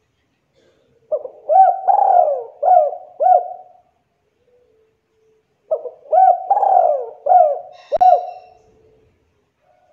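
Spotted dove (tekukur) cooing: two phrases of several quick rising-and-falling coos, a couple of seconds apart. A short sharp click near the end of the second phrase.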